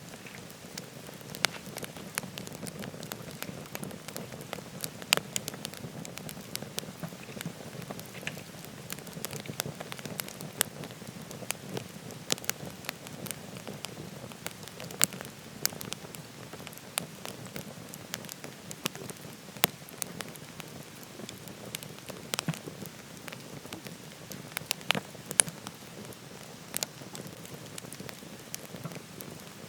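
Wood fire burning in a wood stove, crackling with frequent irregular sharp pops and snaps over a steady rushing hiss.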